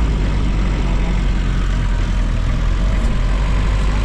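A steady, low engine rumble, like a motor vehicle running.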